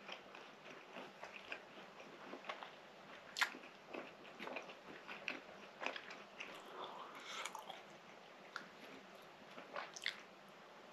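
Quiet close-miked chewing of a soft baked fatayer bun, with scattered wet mouth clicks and smacks, a few sharper ones about three and a half, six and ten seconds in.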